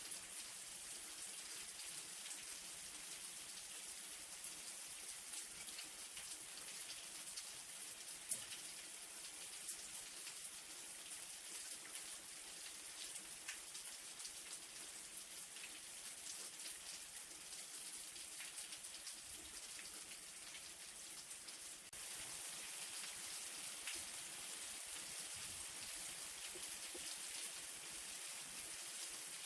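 Light rain falling steadily, a continuous hiss dotted with the ticks of single drops; it grows a little louder about two-thirds of the way through.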